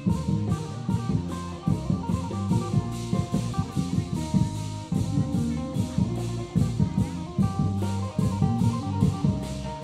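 Isan procession drum band playing upbeat music: a drum kit with steady cymbal hits about four a second, over a bass line and a stepping melody.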